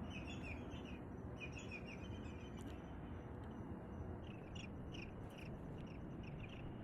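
Small birds chirping in quick runs of short, high notes, coming in several bursts over a steady low background hiss.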